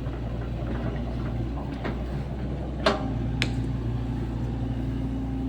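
Sany SY75 mini excavator's diesel engine running steadily under working load, with two sharp metallic knocks about three seconds in, half a second apart, from the bucket or arm linkage.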